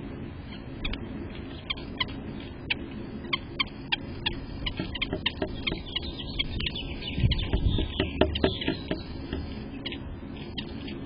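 Birds close to the microphone making an irregular run of short, sharp ticks. The ticks are busiest about seven to nine seconds in, and a low thump comes about seven seconds in.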